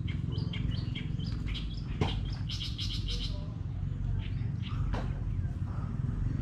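Birds chirping in quick runs of short, high notes, over a steady low rumble, with two sharp knocks about two seconds apart.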